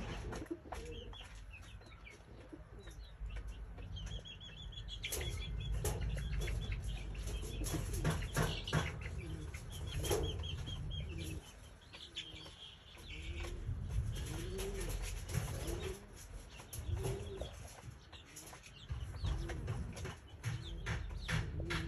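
Bird calls with wings flapping, short chirps and many clicks and knocks over a steady low rumble.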